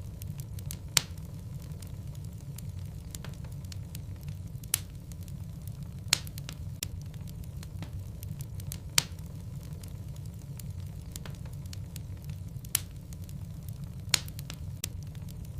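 Wood logs burning in a fireplace: a steady low rumble of the flames with sharp pops and crackles at irregular intervals, the loudest about a second in and again near 5, 6, 9 and 13 seconds.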